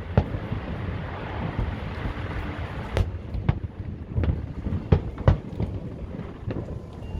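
Fireworks going off: a series of sharp bangs at irregular intervals, about eight in all, over wind rumbling on the microphone.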